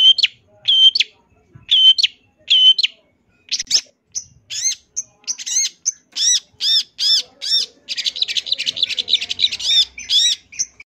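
Long-tailed shrike (cendet) singing. It gives a run of short repeated notes, then arching whistled notes about two a second, then breaks into a fast chattering run about eight seconds in that stops just before the end.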